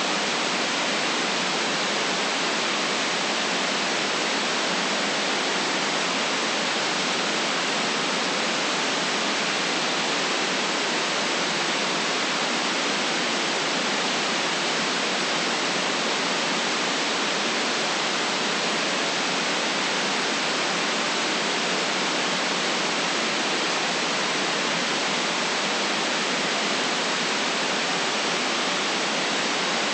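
Steady, unchanging hiss of electronic white noise, with no deep rumble and no very high sizzle.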